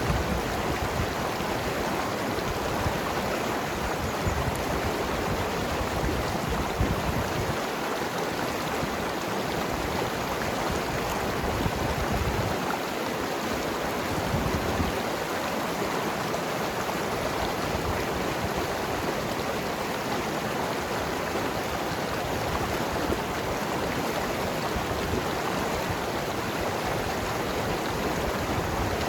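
Mountain river flowing and gurgling over rocks, a steady, even rush of water.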